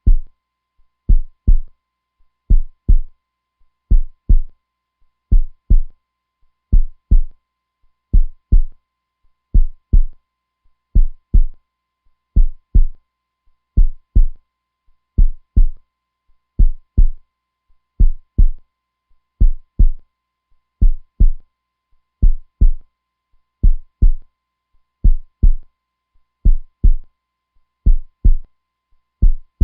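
Heartbeat sound: a steady lub-dub, each beat a pair of low thumps, repeating slowly at about two beats every three seconds.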